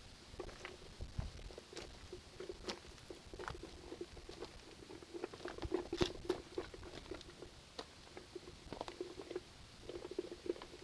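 Irregular light clicks and taps from hand work on a truck's rear wiring harness, with a faint hum underneath that comes and goes; the sharpest tap comes about six seconds in.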